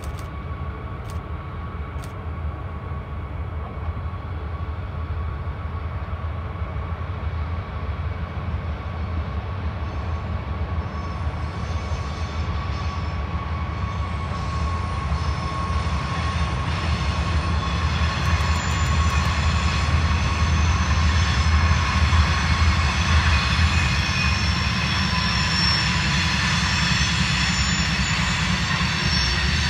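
Diesel freight locomotives rumbling as they approach and pass, growing steadily louder, with a steady whine running over the engine sound. Thin high wheel squeal from the curve joins in over the last third.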